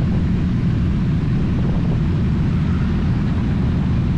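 Motorcycle engine running at a steady speed while riding: a loud, even low drone that holds level throughout.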